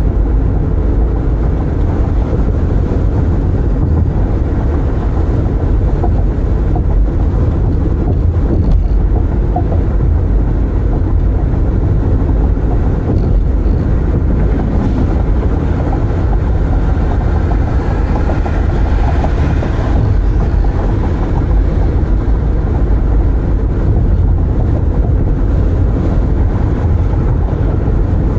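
Car driving at road speed with the windows open: steady low rumble of tyres on the road and wind through the cabin, with the road noise swelling for a few seconds past the middle.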